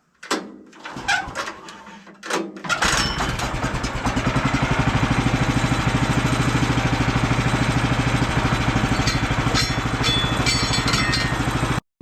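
Small gasoline engine, most likely the portable sawmill's, being started: a few knocks and clatter, then it catches about two and a half seconds in and runs steadily with an even, low pulsing beat. It cuts off abruptly just before the end.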